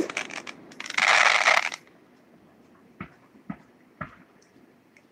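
Fireworks crackling: a quick run of sharp pops, then a dense crackling burst about a second in. After a lull come three faint pops about half a second apart.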